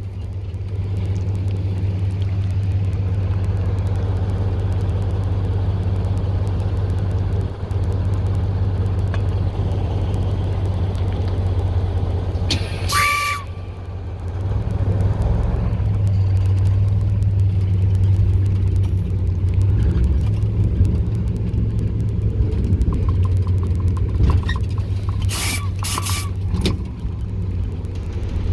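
A TU6A narrow-gauge locomotive's YaMZ-236 V6 diesel runs steadily at low revs, heard as a constant low drone. A short high-pitched sound cuts in about thirteen seconds in, and a few more come near the end.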